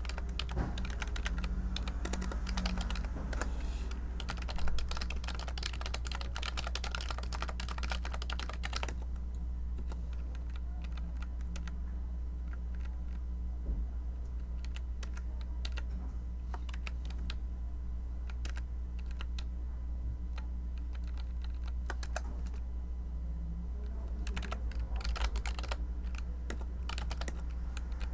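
Typing on a computer keyboard: a fast run of keystrokes for about the first nine seconds, then only scattered key presses, then quick typing again near the end. A steady low hum runs underneath.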